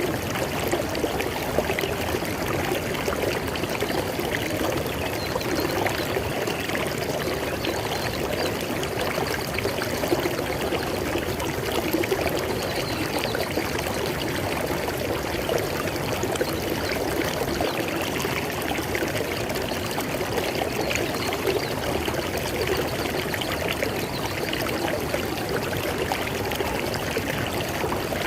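River water flowing and splashing over rocks: a steady, continuous rush.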